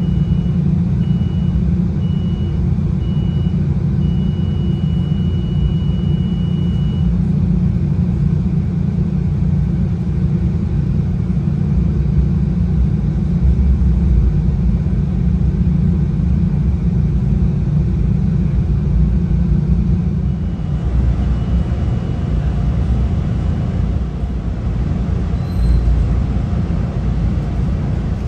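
Steady rumble of a moving Metra double-deck commuter train heard from inside the passenger car. A thin high tone sounds over it, broken into short pieces at first and then held for a few seconds, and returns faintly later on.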